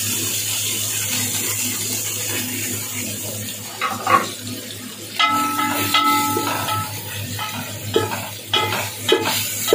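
Boneless chicken pieces and masala powder sizzling in hot oil in an aluminium pressure cooker. From about five seconds in, a spoon stirs the mix, scraping and knocking against the pot several times.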